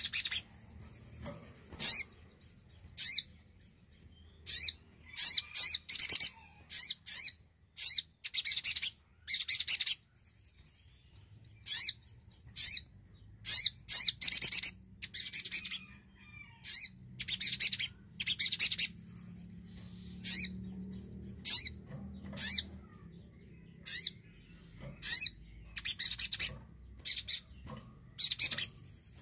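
A sogon (spiderhunter) singing: rapid strings of sharp, high chirps in irregular bursts, with softer buzzing high trills in the gaps between them.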